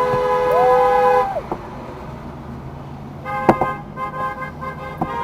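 Car horns honking in a parade convoy. There is one long honk that stops a little over a second in, and a second long honk starting about three seconds in that keeps going.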